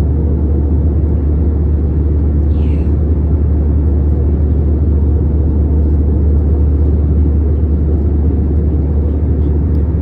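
Steady, loud rumble of an airliner cabin in flight, heaviest in the deep bass. A brief faint high sound comes about two and a half seconds in.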